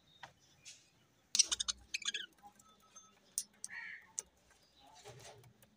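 Pet budgerigars chirping with scattered sharp clicks. The loudest is a quick flurry of high chirps and clicks about a second and a half in, with softer chirps near the end.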